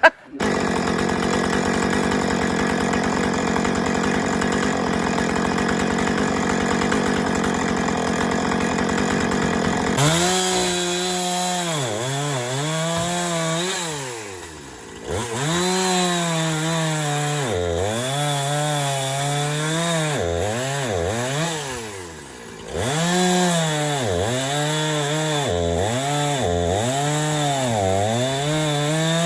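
Chainsaw engine running at high revs for about ten seconds, then throttled up and down over and over, its pitch dropping and climbing back every second or two.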